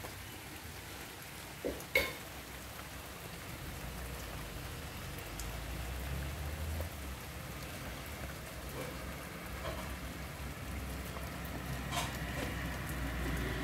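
Steady rain falling on flooded ground and puddles, an even hiss. Two sharp knocks come about two seconds in, and a lighter one near the end.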